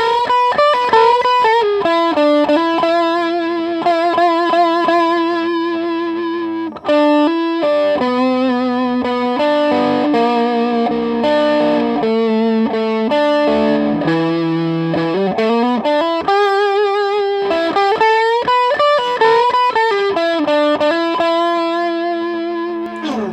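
Electric guitar played through a mild overdrive pedal into a valve amp: a bluesy lead line of held notes with vibrato and string bends between quicker runs. The drive is soft, not very strong.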